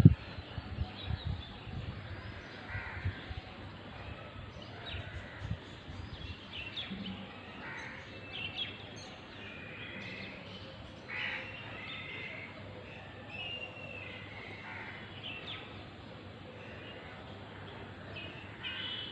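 Outdoor birds calling on and off, with crows cawing among smaller birds' chirps. Low bumps on the microphone in the first few seconds.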